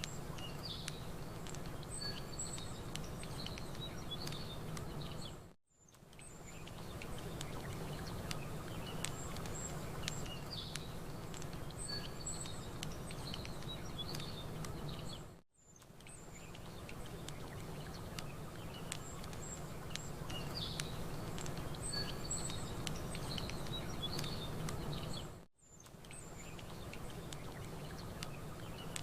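Campfire crackling with frequent small pops, small birds chirping, and a low steady wash of lapping water. The whole mix briefly fades almost to nothing three times, about every ten seconds, where the ambience loop restarts.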